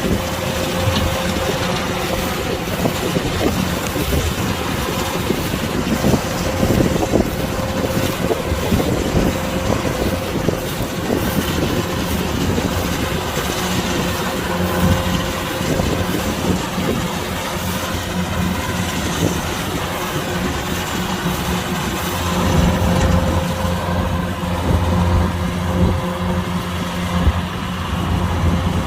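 Kubota DC-105X combine harvester running steadily, a continuous engine drone over machinery noise, growing a little louder for a few seconds past the middle.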